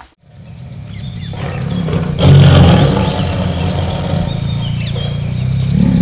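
A large animal's low, drawn-out growl that builds up over the first two seconds and is loudest from about two seconds in, with birds chirping faintly near the end.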